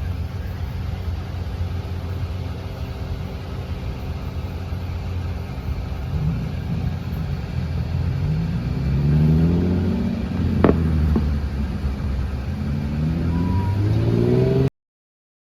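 Steady low rumble of a passing freight train. From about six seconds in, an engine accelerates, its pitch rising twice as if through a gear change, with a sharp metallic clank about ten seconds in. The sound cuts off suddenly near the end.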